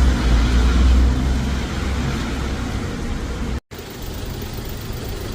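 A bus engine running with a deep low rumble that slowly eases off. About three and a half seconds in the sound cuts abruptly to quieter, steady road traffic.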